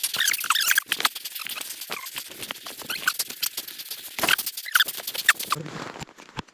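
Short, high chirping calls from a small animal over rapid, irregular clicking and crackling; about five and a half seconds in, the chirps stop and only the clicking goes on.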